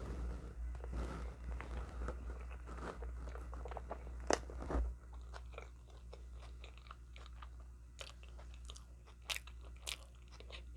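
Close-up chewing and biting of food, with sharp crackling crunches; the loudest crunches come about four to five seconds in and a few more near the end, over a steady low hum.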